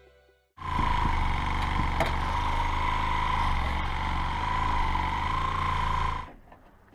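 A power tool running steadily for a little under six seconds: a high, slightly wavering whine over a low hum, switched on and off abruptly.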